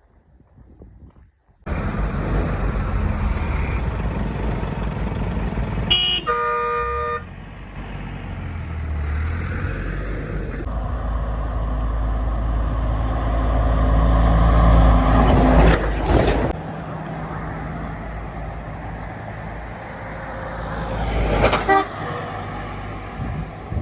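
Road vehicle running, heard in several abruptly cut stretches. A horn sounds briefly about six seconds in.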